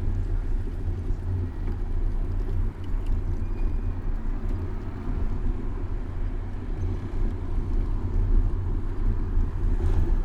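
Steady low rumble of city street traffic and moving air, heard from a camera mounted on a moving bicycle, its loudness wavering.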